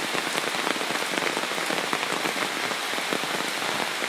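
Steady rain falling, a dense patter of many small drop hits.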